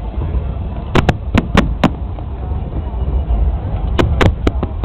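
Fireworks bursting overhead: a quick run of about five sharp bangs a second in, then another run of four near the end, over a steady low rumble.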